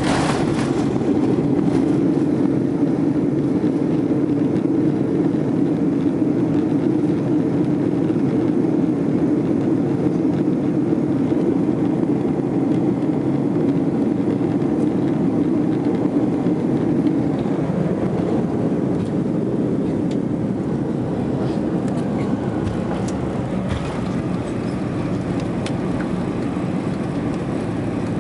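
Cabin noise aboard an Airbus A340-300 during landing: a steady low drone of its four engines and the rushing air, easing off a little past the middle, with a few light knocks near the end.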